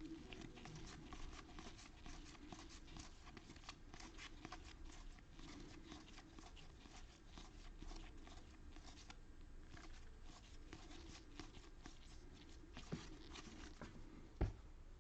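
Faint rustling and many small clicks of baseball trading cards being flipped through and handled, with one sharper thump near the end.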